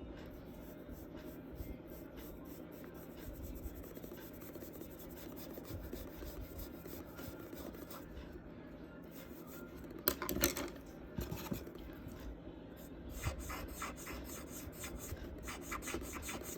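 Charcoal strokes rubbing and scratching on paper, with a cluster of sharper, louder scratches about ten seconds in and again around thirteen seconds.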